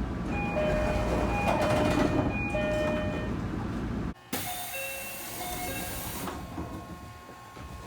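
JR local train passenger doors closing, in two back-to-back recordings over the carriage's steady hum. In each, a door chime sounds a few short tones. The second recording opens with a hiss of air lasting about two seconds as the door engine works, and a few sharp knocks come near the end.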